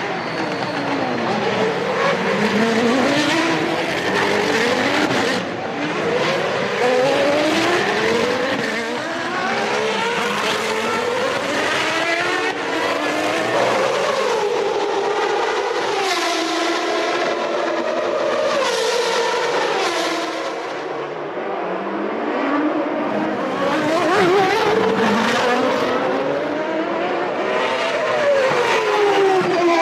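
1993 Formula One cars with naturally aspirated racing engines running hard, several of them overlapping. Their pitch climbs and drops again and again as they accelerate, shift gear and brake.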